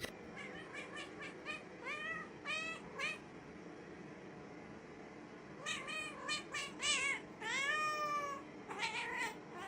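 Cat meowing repeatedly: a quick run of short meows, a pause of a couple of seconds, then another run with one longer, drawn-out meow near the end.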